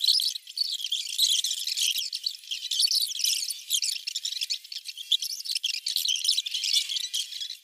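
Many small birds chirping and twittering without a break, thin and high-pitched.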